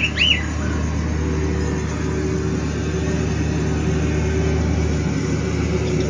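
Low, steady drone of a vehicle engine running. Two short bird chirps come right at the start.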